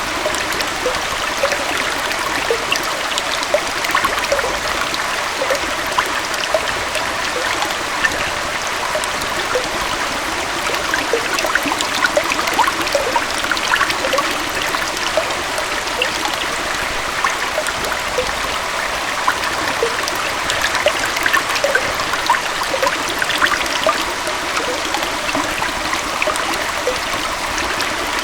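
Small waterfall and forest stream: water splashing and trickling over rocks in a steady rush, with many small splashes and drips.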